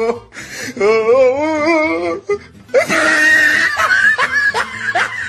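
Comedy laughing sound effects: a warbling, wavering voice for about a second, then, about halfway in, a wheezy high-pitched laugh in quick repeated strokes.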